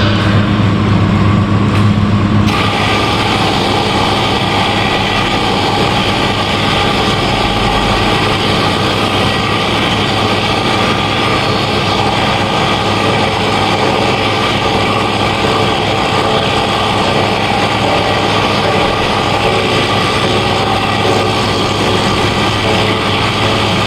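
Machinery running steadily with a strong low hum, its sound shifting slightly about two and a half seconds in.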